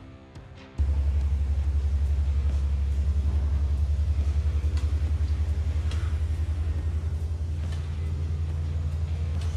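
Diesel engine running at idle: a steady low rumble with a fast, even pulse that cuts in suddenly about a second in.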